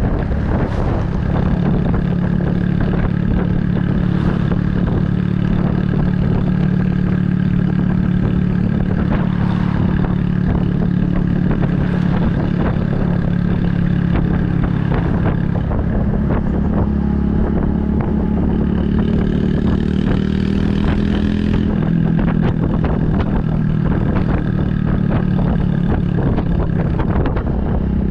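Honda Super Cub 110's air-cooled single-cylinder four-stroke engine running steadily under way through a Kitaco mini Caborton aftermarket muffler. The engine note shifts about 16 seconds in and again about 22 seconds in.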